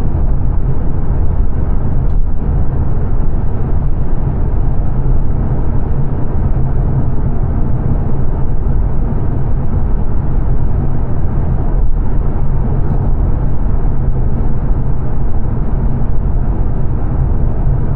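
Steady road and tyre noise inside the cabin of a 2022 Mazda 3 saloon cruising at speed on a dual carriageway, mostly a low, even rumble.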